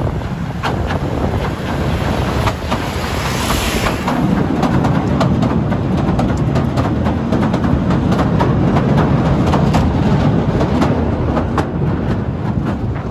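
Southend Pier Railway train passing close by on the pier track, its wheels running on the rails with many clicks. The rumble builds about four seconds in as the coaches go past, and wind noise on the microphone runs under it.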